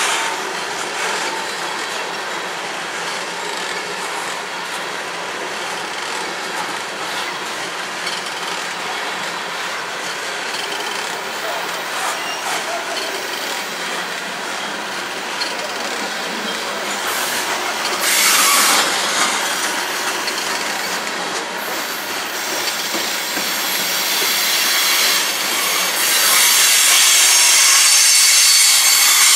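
Coal train's loaded-style freight cars rolling steadily past, a constant rumble and rattle of wheels on rail with some clickety-clack. A louder high hiss rises briefly a little past halfway and again near the end.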